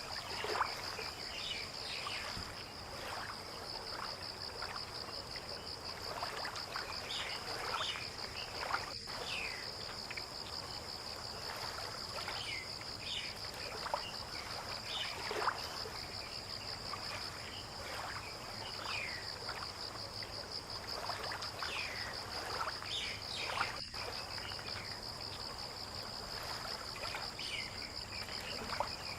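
A steady, high-pitched insect trill with a fine rapid pulse, with short falling chirps scattered through it over a low wash of water-like noise.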